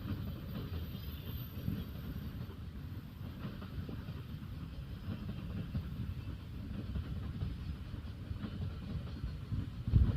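Train running on the rails: a steady low rumble without a clear beat.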